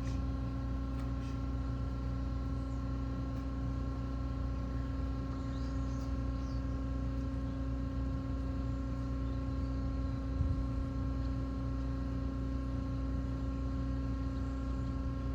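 A steady mechanical hum with a constant pitch over a low rumble, as from an engine or machine running without change. Faint high chirps come about six seconds in.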